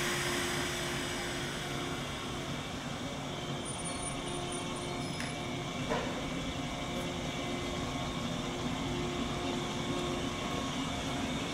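JR 185 series electric train starting off and rolling slowly along the platform, a steady low rumble and hum of wheels and running gear, with a single clack about halfway through.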